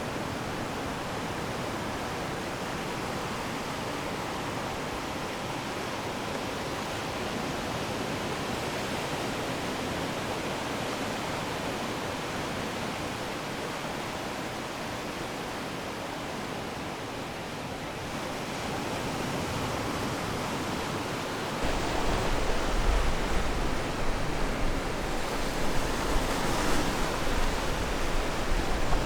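Ocean surf washing on the shore as a steady hiss of breaking waves. About three-quarters of the way through it changes abruptly to louder, deeper surf with uneven swells.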